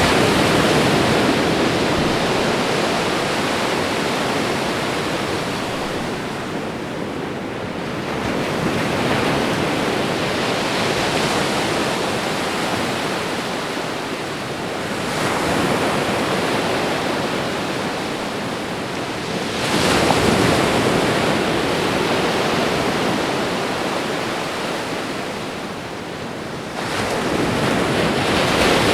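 Ocean waves washing onto a shore, a continuous rushing surf that swells and falls back, with fresh surges about every five to seven seconds.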